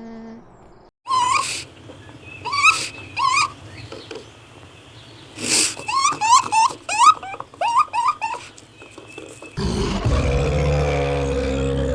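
Animal sound effects: a series of short, pitched calls that sweep up and down, then near the end a louder, low, drawn-out roar begins.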